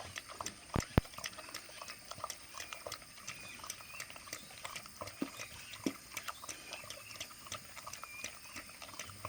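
Kai Ken dog eating milk-soaked food from a bowl: quick, irregular wet lapping and chewing clicks, with a few sharper knocks about a second in and again past the middle.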